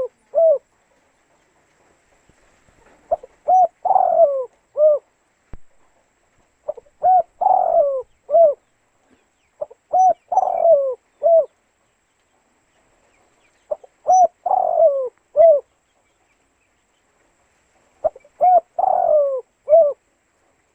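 Spotted dove cooing: a phrase of a few short coos around one longer, falling coo, repeated five times about every three to four seconds.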